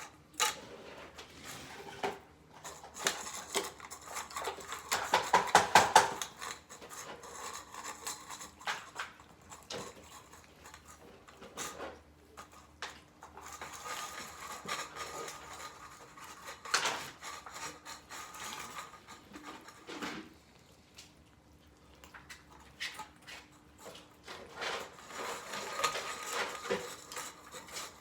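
A metal utensil clinking and scraping against dishes and food cans while wet cat food is mixed and spooned out, with a quick run of taps about five seconds in.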